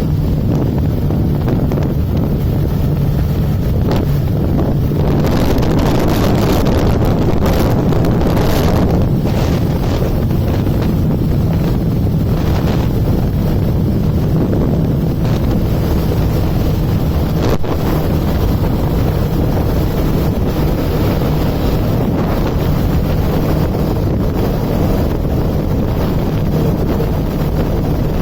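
Kawasaki Ninja motorcycle's engine and exhaust running steadily while riding, with heavy wind buffeting on the microphone that gusts stronger for several seconds early on.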